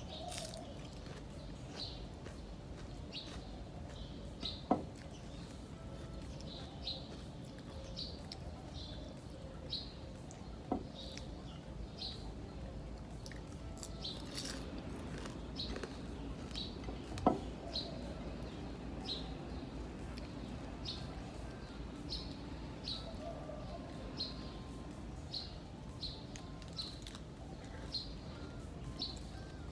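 A small bird chirping over and over in short, high single chirps, roughly one a second, over a steady low background hum. Three sharp clicks stand out, about five, eleven and seventeen seconds in.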